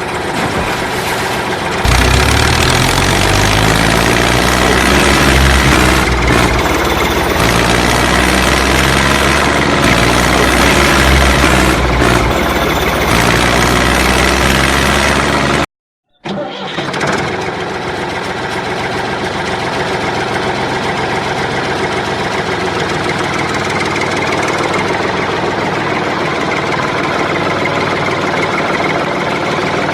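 A machine engine running, with a low hum that wavers in pitch. It cuts off abruptly about sixteen seconds in and resumes as a steadier, weaker running sound.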